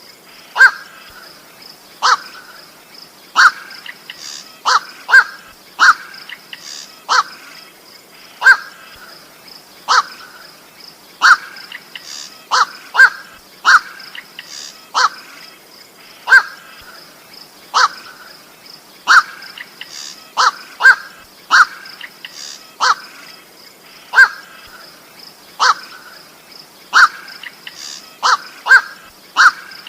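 Koak bird calling, played as a lure: short, harsh single calls, one every second or so and sometimes two in quick succession, over a steady high-pitched insect drone.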